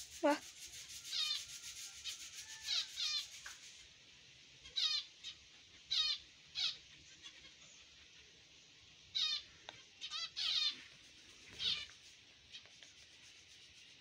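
Baby bird chirping: about a dozen short, high calls, singly or in pairs, with pauses of a second or more between them.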